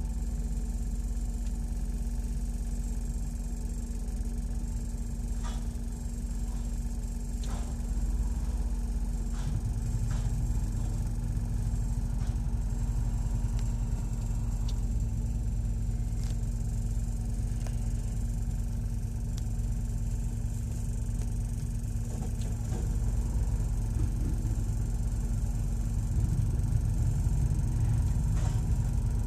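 Car engine idling, heard from inside the cabin as a steady low rumble with a constant hum. The rumble grows a little fuller about ten seconds in.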